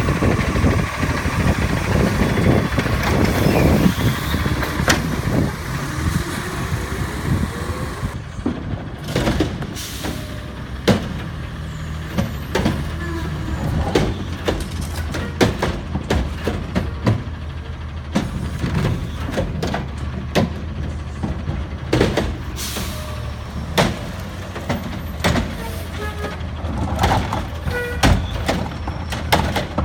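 Autocar ACX garbage truck with a McNeilus Pacific body and Curotto Can arm, its engine running steadily under many sharp clanks and bangs of the collection arm and cans being dumped. The first several seconds are busier and louder.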